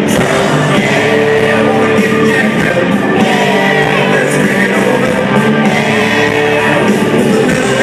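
Live country-rock concert music: a full band playing loudly with a male lead vocal singing over it.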